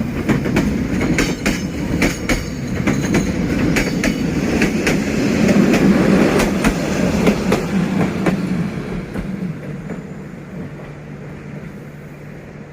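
Passenger train running past on the rails, its wheels clicking over the rail joints over a steady rumble. The clicking dies out after about eight seconds and the sound fades as the train moves away.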